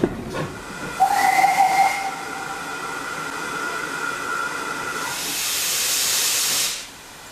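Steam locomotive whistle, likely on GWR pannier tank 6412, blowing for about four seconds, loudest in its first second and then held more softly. It is followed by a loud hiss of escaping steam that cuts off suddenly.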